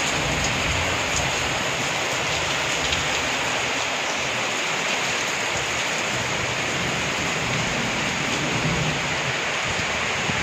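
Heavy rain pouring down in a steady, even hiss, with an uneven low rumble underneath.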